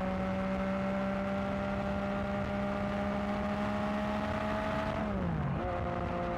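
Yamaha XSR900's inline three-cylinder engine running through a newly fitted aftermarket exhaust under way. The engine note holds steady and climbs slowly, then dips sharply about five seconds in and settles a little lower.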